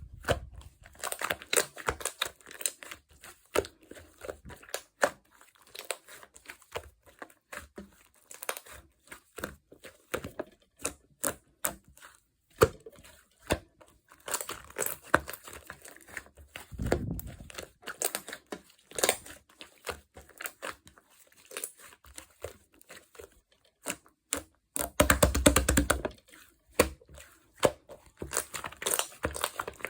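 Clear slime being squeezed, stretched and poked by hand, giving irregular wet clicks, pops and crackles, with a louder run of rapid pops about 25 seconds in.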